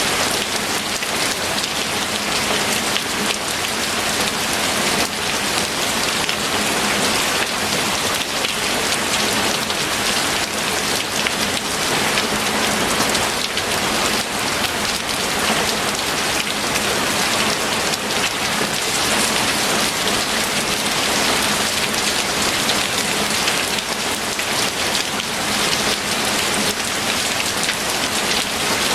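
Steady, heavy rain falling, a dense even patter of drops on a surface.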